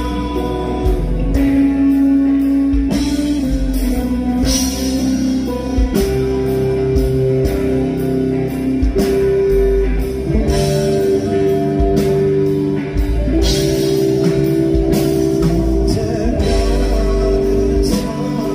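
Live band playing an instrumental passage of a slow rock song: guitar-led, with long held melody notes over bass and a steady drum beat.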